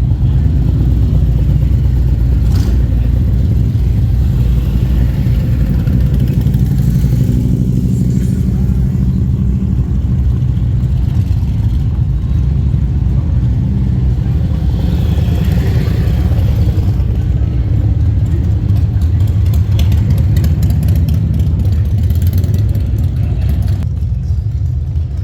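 Motorcycle engine running steadily close to the microphone: a continuous deep, low rumble.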